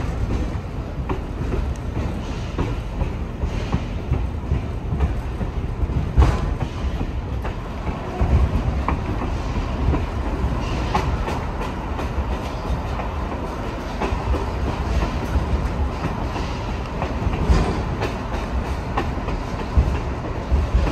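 Railway passenger coach rolling along the track, heard from aboard: a steady low rumble of wheels on rail with scattered clacks.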